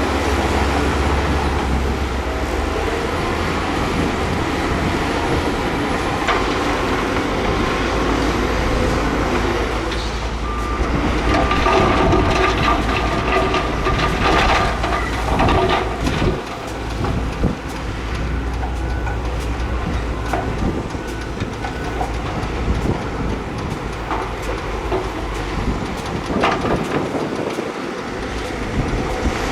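Heavy diesel construction machinery working: a steady low engine drone with scattered metallic clanks, and a few seconds of high squealing near the middle.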